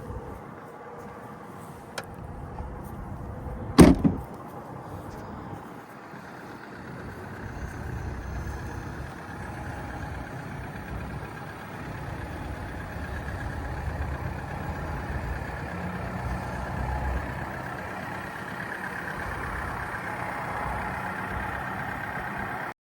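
A car door shutting with one heavy thump about four seconds in, over a steady low vehicle rumble that grows a little louder later on.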